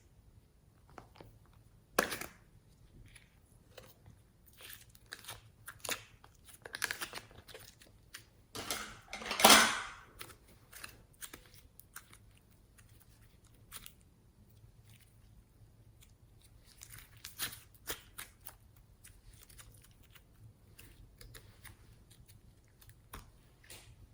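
Hands handling slime and the things being mixed into it: scattered sharp clicks and short crackling, crunching stretches, the loudest a noisy rustle about nine seconds in.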